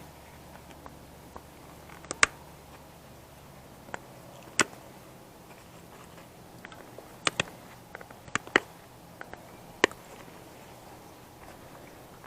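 Irregular sharp clicks and snaps of small plastic and metal computer parts being pulled apart and handled, about a dozen in all, a few of them louder.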